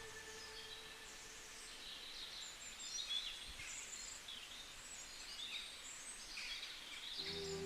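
Birds chirping and calling with many short, high, quick notes over a faint background hiss. Music comes in near the end.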